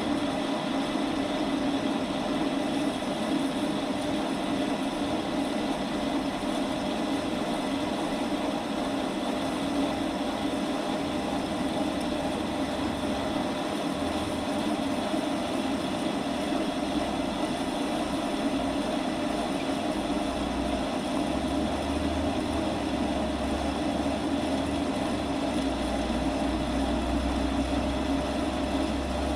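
Metal lathe running steadily, turning down a workpiece: an even machine hum with the sound of the cut.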